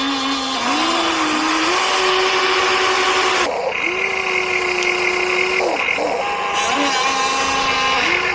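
Electric motors of radio-controlled construction models whining, the pitch rising, holding and dropping again in short runs of a second or two as they are driven, over a steady hiss. A higher whine joins in from about a third of the way in to the middle.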